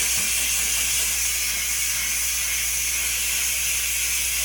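Dirt Devil handheld steamer jetting a steady hiss of steam onto a refrigerator's surface.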